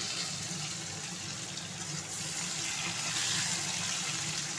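Potato wedges sizzling in hot oil in a steel kadai, a steady hiss that swells a little about three seconds in.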